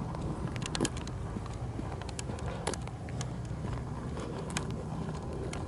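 Footsteps crunching on rough ground with a few irregular sharp clicks, over a steady low rumble.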